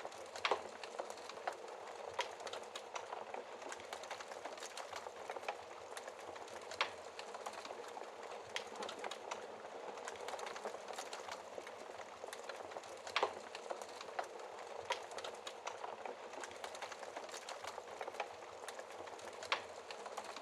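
Burning logs crackling in a fireplace: a steady hiss with frequent small crackles and a few louder, sharper pops spread through.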